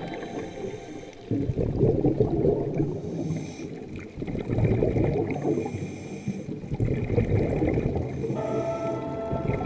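Water surging and gurgling in uneven swells, as heard through an underwater camera's microphone. Background music comes back in near the end.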